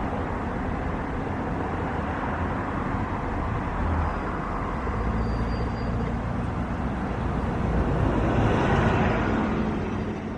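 Jet airliner engines running: a steady rushing noise with a faint high whine, swelling louder about eight seconds in.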